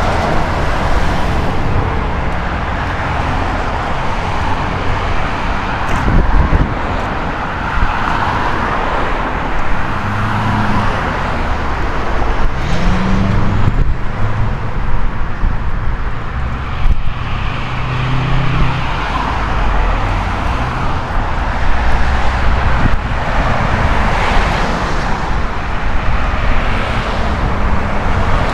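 Road traffic: a steady rush of car tyres and engines with a low rumble, swelling as vehicles pass one after another.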